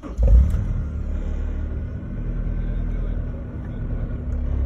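Honda S2000's swapped-in 2.2-litre inline-four engine starting from the push-button. It catches almost at once with a brief flare and then settles into a steady idle.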